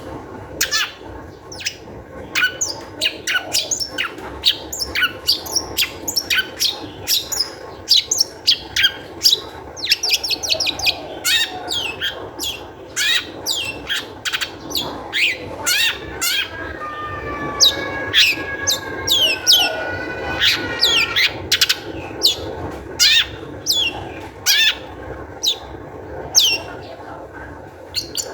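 Long-tailed shrike (cendet) in full, agitated song: a fast, unbroken string of sharp downward-sweeping chips and whistles, with a run of steadier level whistles about two-thirds of the way through.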